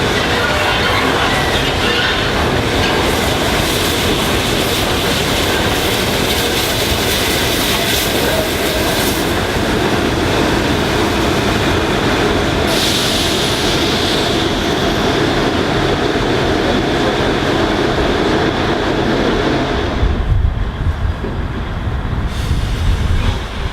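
Train running past at close range, its wheels clattering over the rails in a steady loud din, with a brief hiss about 13 seconds in. The noise cuts away about 20 seconds in as the train clears, leaving wind rumble.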